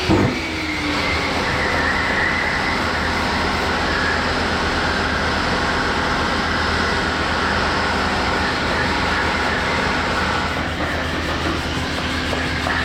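Power sander, likely an orbital sander with its dust extractor, running steadily while levelling body filler on a panel. A whine rides on the noise and fades about ten seconds in, leaving a lower hum.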